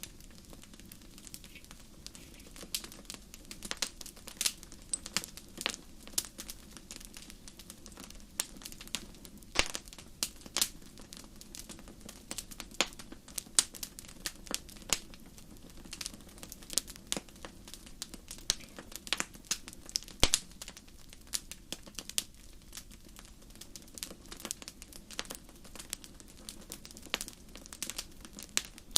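Campfire crackling: irregular sharp pops and snaps, some much louder than others, over a steady low background.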